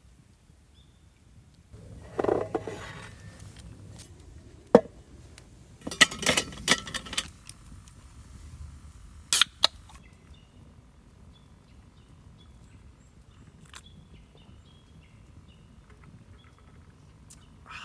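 Handling noises: a scrape, then a sharp click, a quick run of clicks and knocks, and another sharp click. In the second half, faint short chirps that sound like birds.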